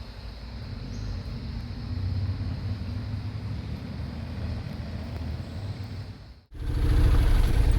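Motorcycle riding sound: an engine running, with low wind rumble. About six and a half seconds in, a sharp cut gives way to a louder, closer engine sound.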